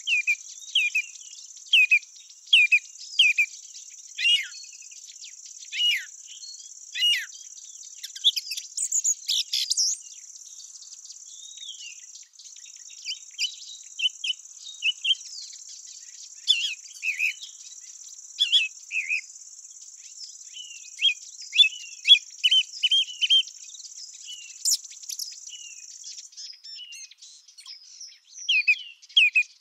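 Field insects giving a steady high-pitched buzzing trill, with small birds chirping and singing over it in short repeated notes. The insect sound breaks off briefly about twelve seconds in and stops a few seconds before the end, leaving the birds alone.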